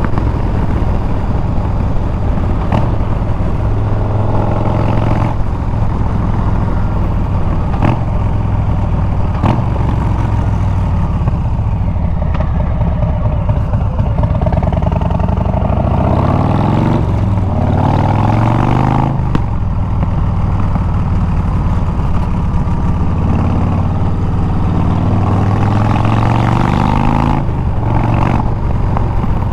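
Harley-Davidson Milwaukee-Eight 114 V-twin running through Bassani straight pipes while riding, with a steady low engine note. About halfway through the revs climb steeply and then drop back sharply.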